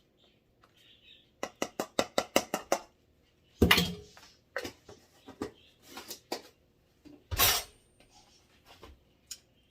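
Kitchen utensils and containers clinking: a quick run of light taps, like a spoon tapped against a container, then scattered clicks and two louder knocks, the second the loudest, while seasonings are measured out.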